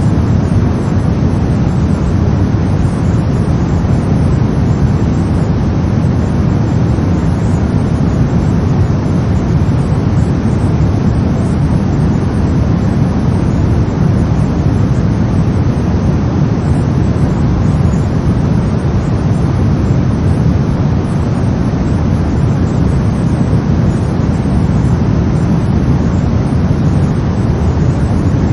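Steady brown noise: a deep, even rumble of random noise, strongest in the bass and fading toward the treble, with no changes.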